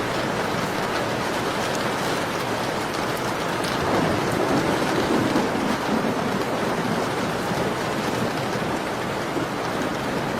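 Steady rain falling, with a few faint sharp crackles from a wood fire. About four seconds in it briefly grows louder and deeper for a couple of seconds.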